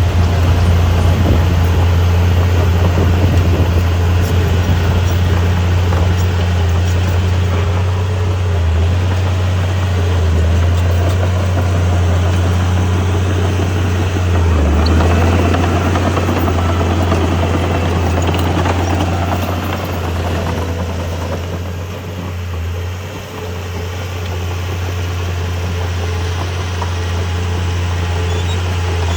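Heavy earthmoving machine's diesel engine running steadily with a deep low drone, dipping briefly about three quarters of the way through.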